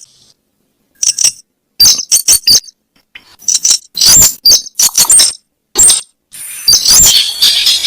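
Weris bird calls from a lure recording: short, sharp, high-pitched notes in quick clusters with brief gaps, starting about a second in and running together into a denser string near the end.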